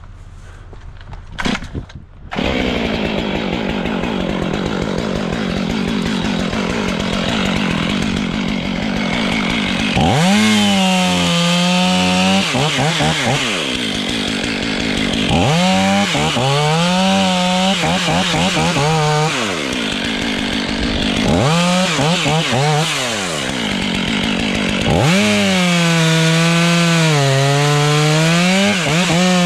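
Two-stroke chainsaw running and cutting into wood. It revs up hard in four stretches, its engine pitch wavering and dipping as it works in the cut.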